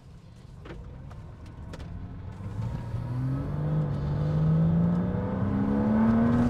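Porsche Cayman 987.1 S flat-six engine on its standard exhaust, heard from inside the cabin while accelerating. The engine note rises steadily in pitch and grows much louder from about two seconds in.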